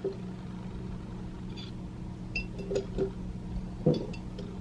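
Light clinks and knocks of instant-coffee things being handled (jar, spoon, cup), about half a dozen scattered taps over a steady low hum.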